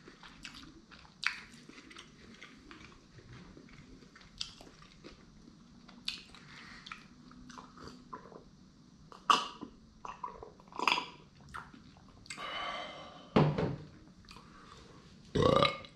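A person chewing a mouthful of sushi close to the microphone, with repeated wet mouth clicks and smacks. A few louder mouth and throat sounds come in the second half.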